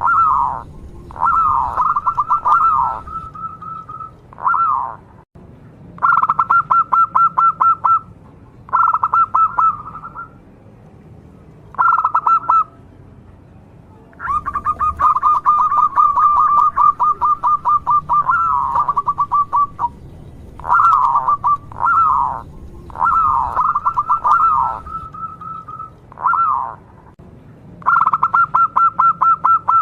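Zebra dove (perkutut) cooing in repeated phrases of rapid staccato notes, with short pauses between phrases and one long phrase of about five seconds midway.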